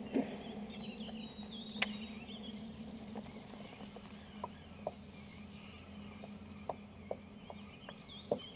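Birds chirping over a steady low hum of outdoor background noise, with one sharp click about two seconds in and faint scattered ticks afterwards.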